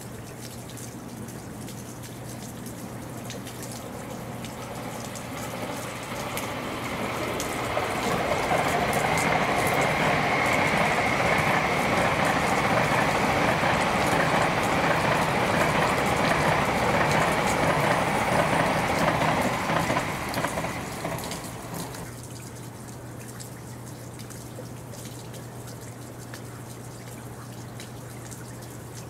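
Shinkansen bullet train passing at speed: a rushing noise that builds over several seconds, stays loud for about twelve seconds with a faint steady high whine in it, then falls away quickly two-thirds of the way through.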